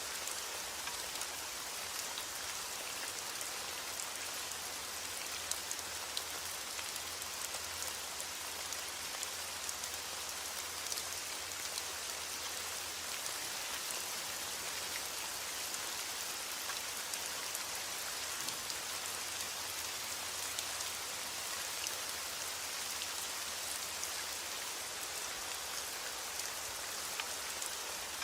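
Steady rain falling on a surface: an even hiss of rainfall with scattered sharper drop ticks, no thunder.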